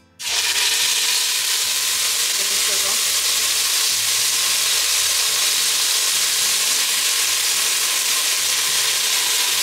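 Partly frozen sofrito hitting hot olive oil in a stainless steel stockpot, starting to sizzle abruptly just after the start and then sizzling loudly and steadily. The icy puree meeting the hot oil makes it sizzle hard.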